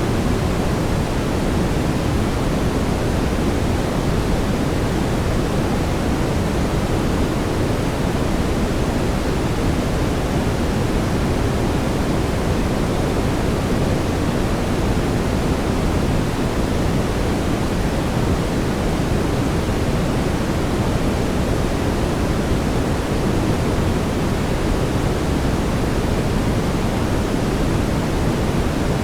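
Steady synthetic brown noise: an even, unchanging hiss with most of its weight in the low end.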